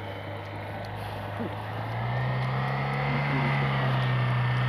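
Chevrolet Niva's engine pulling steadily up a dirt slope under load, growing louder as it approaches, its pitch lifting a little about two seconds in.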